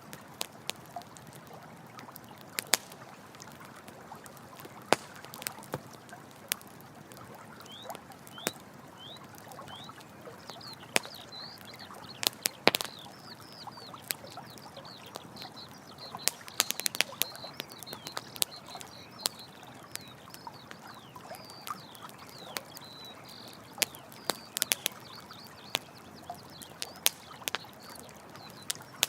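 Campfire crackling with sharp, irregular pops over a steady rush of running water. From about eight seconds in, quick high chirping calls repeat.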